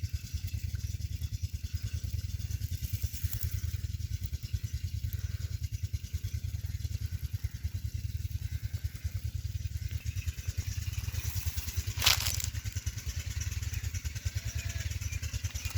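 Petter-type single-cylinder diesel engine running steadily with an even, rapid beat. Near the end, one brief louder noise stands out over it.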